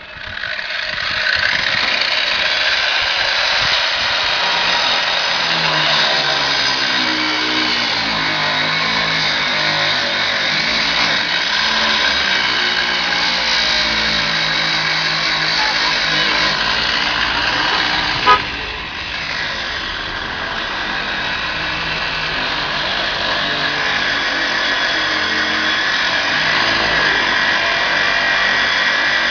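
Angle grinder cutting through a steel garage lock: a steady, loud grinding noise that runs unbroken, with one sharp click about eighteen seconds in and a slight drop in level after it.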